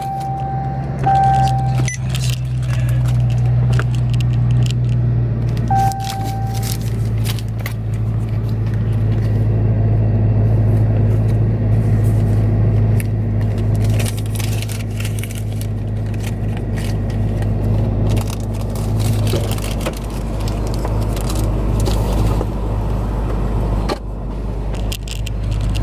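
Dodge Charger Hellcat's supercharged V8 and road noise heard from inside the cabin: a steady, loud low drone while driving onto the highway. Two short beeps sound, one at the start and one about six seconds in.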